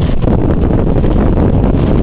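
Jet blast from an Airbus A320 at takeoff power, a loud steady rush of wind buffeting the microphone.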